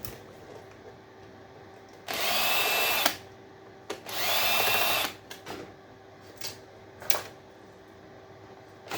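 Power drill running in two bursts of about a second each, with a steady motor whine, followed by a few short clicks of handling.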